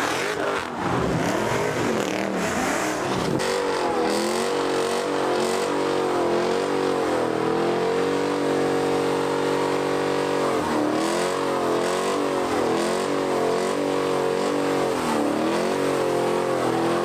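Car engine running under way, its note rising and falling again and again as it revs and eases off, holding steady for a couple of seconds midway.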